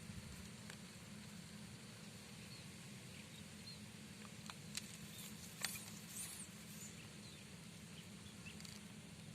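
Faint riverside outdoor ambience: a steady low hum, with a few soft clicks and two or three brief high chirps a little past halfway.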